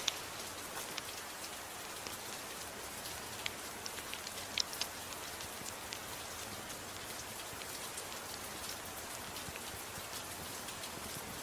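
Steady gentle rain with a wood fire crackling, a few sharp pops standing out above the rain, two close together about four and a half seconds in.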